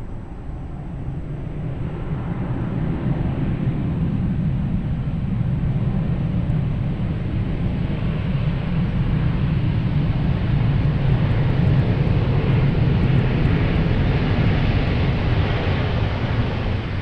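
Airbus A350-900 jet engines (Rolls-Royce Trent XWB turbofans) running loud. The noise builds over the first few seconds, stays loud, and eases off near the end.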